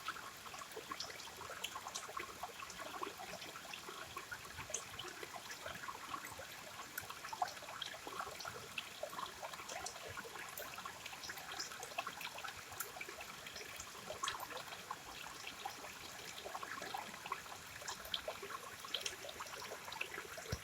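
River water flowing and trickling over stones, a steady gurgling with many small splashes.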